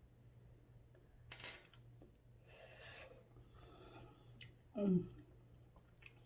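Faint eating sounds: a few light clicks and rustles of utensils and food, then a short falling hum from the eater about five seconds in.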